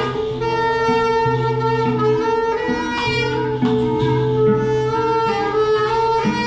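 A group of instruments improvising together, several playing at once in overlapping held notes over a low note that repeats in long tones.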